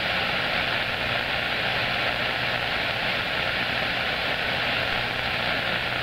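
CB radio receiver hissing with steady band static between transmissions, heard through the radio's speaker, with a faint steady tone underneath.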